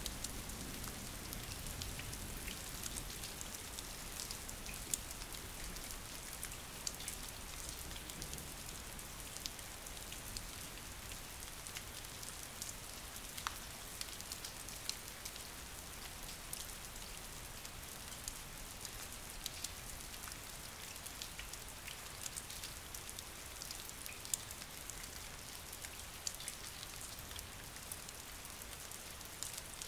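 Steady rain falling on a hard surface, with scattered individual drops clicking sharply above the even hiss.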